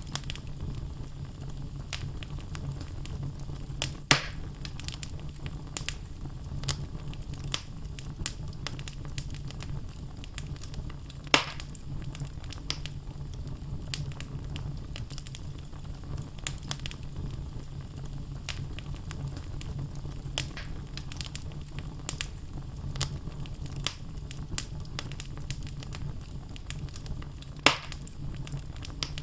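Wood logs burning in a fireplace: a steady low rumble of flames with irregular crackling, and three louder pops.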